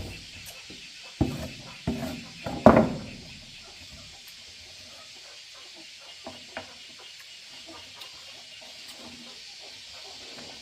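About four sudden knocks or clatters in the first three seconds, the last the loudest, over a steady hiss; then only faint scattered ticks.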